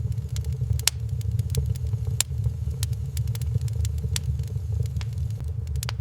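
Wood fire in a fireplace crackling, with irregular sharp pops, two of them louder about one and two seconds in, over a steady low rumble.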